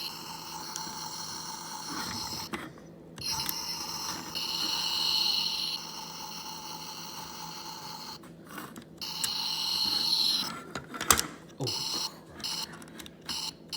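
Electronic engine sound effects from a Toy State Caterpillar steamroller toy's small speaker, dropping out twice and then stuttering on and off near the end. The sound chip is glitchy, acting as though its button-cell batteries were low even though they are new.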